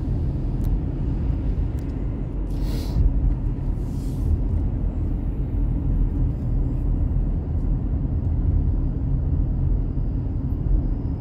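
Car driving along a back road: steady low rumble of engine and tyres, with two brief hissing sounds about three and four seconds in.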